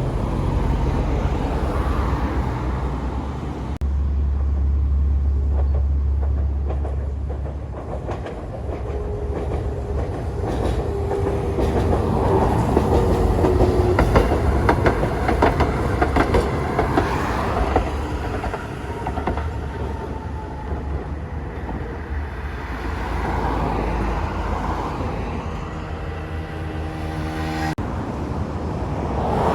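A train running on the track, its wheels clattering over rail joints, with a faint whine partway through.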